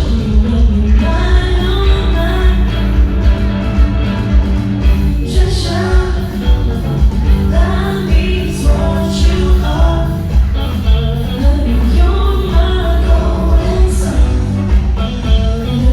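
Live band music with a singer, heavy bass and a steady beat, heard from behind the stage.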